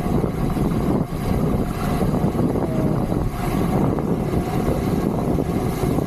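Wind rushing over the microphone of a camera carried on a bicycle going downhill at speed, a steady low rumbling noise.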